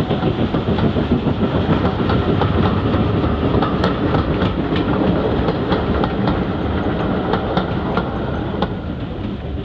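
A steam-hauled train's carriages rolling past close by: a steady rumble with wheels clicking over rail joints, easing off slightly near the end.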